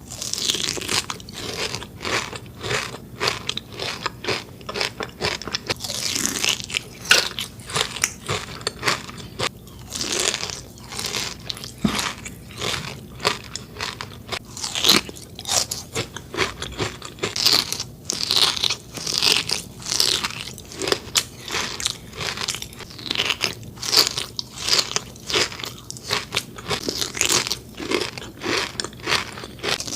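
Close-miked biting and crunching chewing of Dubai chocolate: a chocolate bar filled with toasted kataifi pastry and pistachio cream, crackling with dense, irregular crunches throughout.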